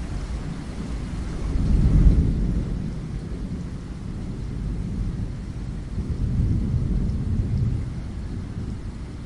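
Steady rainfall with low rumbles of thunder swelling twice, the louder one about two seconds in and a longer one past the middle.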